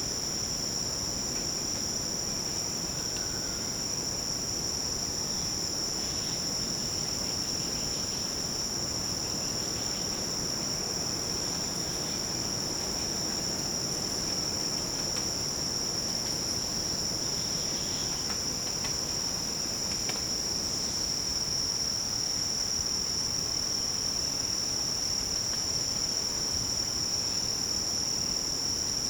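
Steady, unbroken high-pitched insect chorus in tropical forest, several insects holding different pitches at once.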